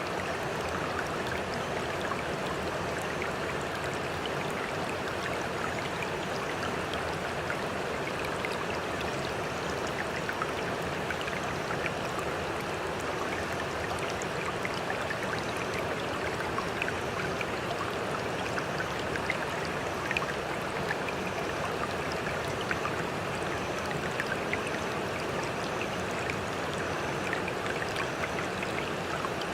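Running water, with a steady rushing sound flecked with many small splashes and drips, without pause or change.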